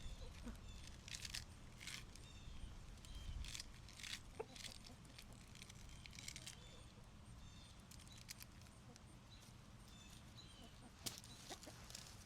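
Chickens clucking and chirping faintly, with scattered light clicks and rustles around them.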